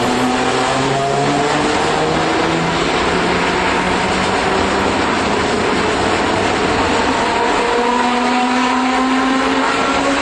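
Old Iyo Railway streetcar running, heard from inside the car: the traction motor and gear whine climbs in pitch in steps over the first few seconds as the tram gathers speed, then rises again near the end over steady rolling noise.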